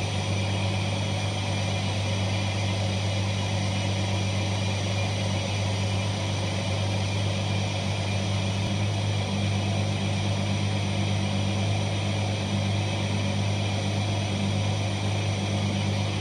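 The 3.7-litre V6 of a 2004 Jeep Liberty idling steadily at about 1000 rpm, warmed up.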